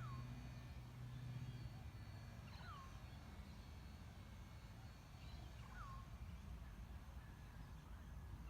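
A bird calling with a short, down-slurred whistle, three times about two and a half seconds apart. A low steady hum sounds underneath for the first second and a half.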